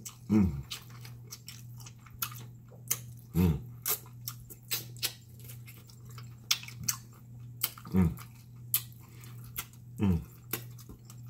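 Close-up wet chewing and lip-smacking as a pig tail is gnawed and eaten, with many short sharp clicks of the mouth. A few brief low vocal sounds, each falling in pitch, come at intervals over a steady low hum.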